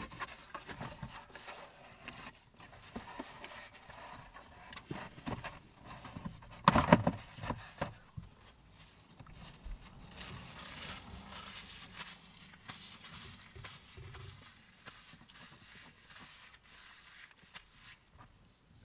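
Close-up mouth sounds of a person chewing pizza: irregular wet clicks and crackles, with a louder crunching flurry about seven seconds in.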